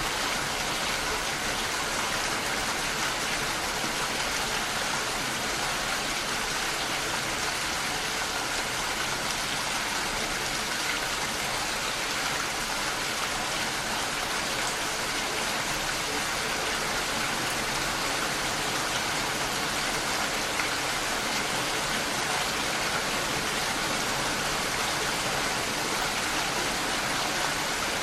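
Gentle rain falling steadily, an even unbroken hiss with no thunder.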